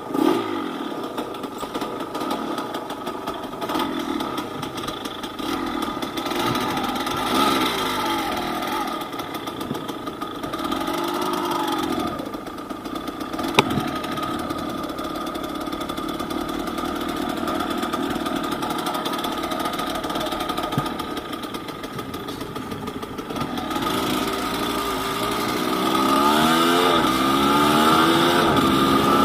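Yamaha DT200WR two-stroke single-cylinder engine running at low revs, its pitch swelling slightly now and then. There is a single sharp click about halfway through, and the revs rise more strongly over the last few seconds.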